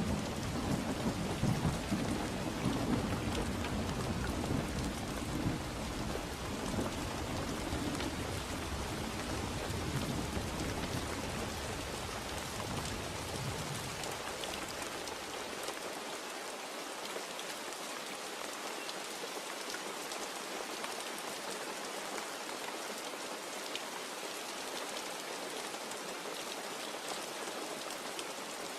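Steady rain falling, with a long low rumble of thunder that dies away about halfway through.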